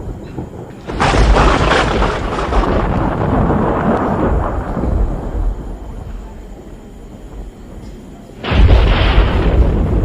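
Thunder from a building storm: a sudden crack about a second in that rolls away over several seconds, then a second clap near the end with a deep rumble.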